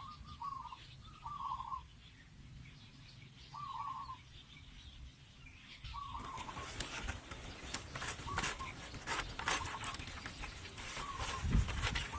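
Short bird calls repeating every second or two. From about halfway a dense run of sharp clicks and knocks joins them.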